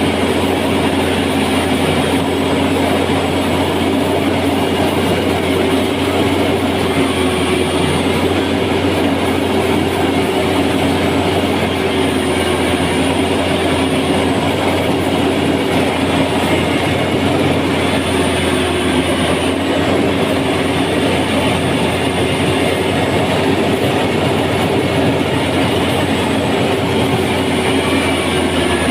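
A machine's engine running steadily without let-up: a constant loud drone with a steady hum.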